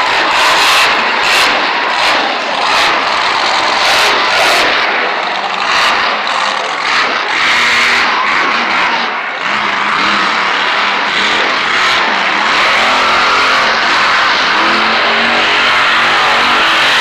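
Monster truck engines running loud and revving, with the engine pitch shifting up and down in the second half.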